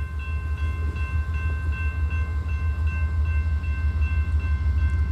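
Norfolk Southern AC44C6M diesel locomotive running light with a steady low rumble, while a bell rings about four times a second.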